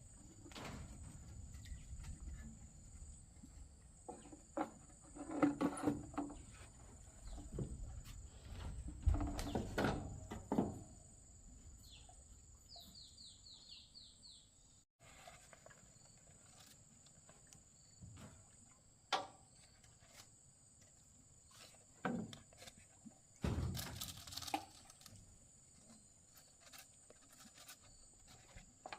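Scattered knocks and thuds of objects being handled. About twelve seconds in comes a short run of quick high chirps, and a faint steady high hiss runs underneath.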